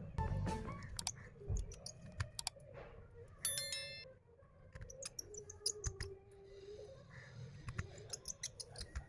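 Scattered small clicks and taps from handling phone parts and tools during reassembly, with a brief high-pitched chirp about three and a half seconds in.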